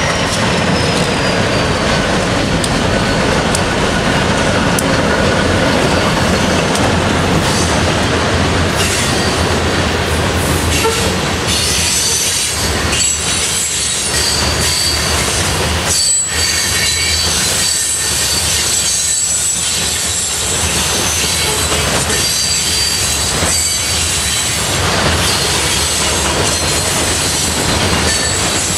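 Freight train rolling past at close range, a steady rumble and clatter of wheels over the rail joints. From about a third of the way in, thin high-pitched wheel squeal rides over it.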